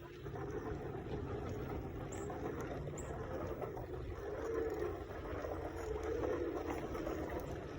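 Steady rushing wind and rolling rumble while riding a bicycle, with a hum that wavers in pitch.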